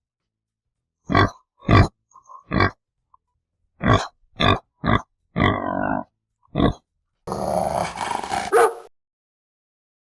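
Pig grunting: a series of short, separate grunts, then one longer, rougher grunt in the last few seconds before it falls silent.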